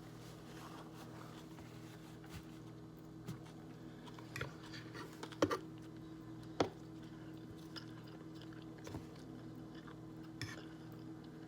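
A person chewing and biting food close to the microphone, with scattered short crunchy clicks, the two loudest a little past the middle. A steady low hum runs underneath.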